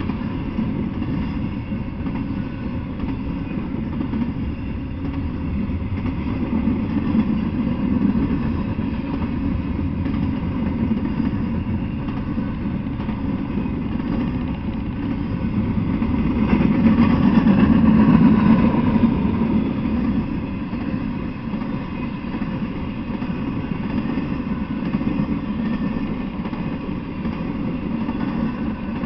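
Intermodal freight train of container well cars rolling past: a steady low rumble of wheels on rail, swelling louder for a few seconds just past the middle.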